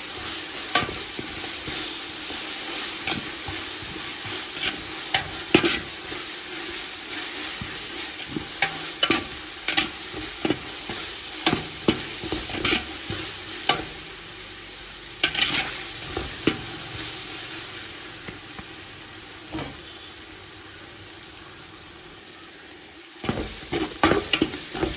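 Sliced onions and ginger-garlic paste sizzling in hot oil in a large metal pot, stirred with a metal ladle that scrapes and clicks against the pot. The paste is being fried until its raw smell goes. For several seconds toward the end the clicking stops and the sizzle grows quieter, then the stirring starts again.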